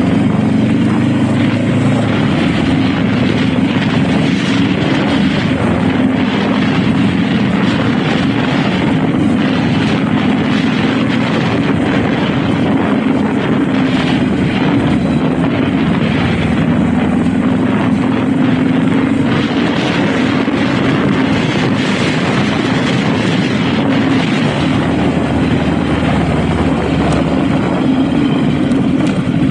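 Honda Rebel motorcycle engine running steadily while riding, with a broad rush of wind and road noise over it.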